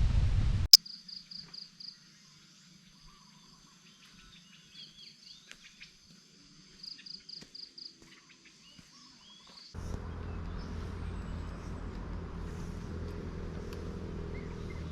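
Outdoor wildlife ambience: a bird or insect call in short runs of quick, high pulsed notes over a faint steady high buzz. About ten seconds in, the sound cuts abruptly to a steady low hum with a noise bed and faint chirps above it.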